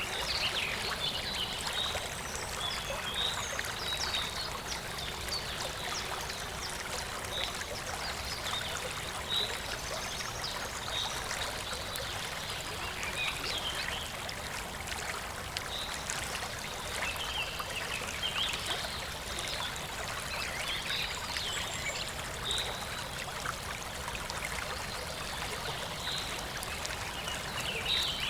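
Clear water flowing in a shallow river or stream: a steady rush with constant small trickling and gurgling splashes.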